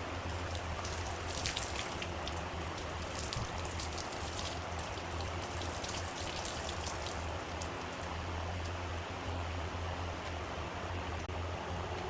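Wood lathe running with a steady low motor hum, with a dense crackling, rain-like patter for the first few seconds.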